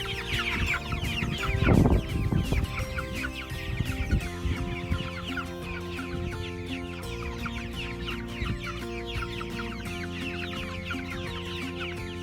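A flock of Cornish Cross broiler chicks peeping continuously, many short falling chirps overlapping, over soft background music. A brief low rumble comes about two seconds in.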